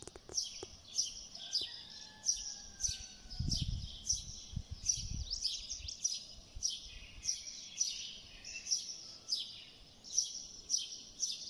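A small bird chirping over and over, short high chirps about twice a second. There are a few light clicks near the start and some low dull knocks around the middle, which fit a knife working on the cutting board.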